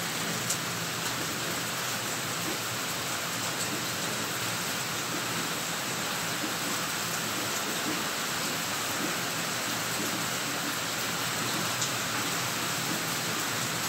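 Heavy rain falling steadily as an even, continuous hiss, with a few brief sharp ticks.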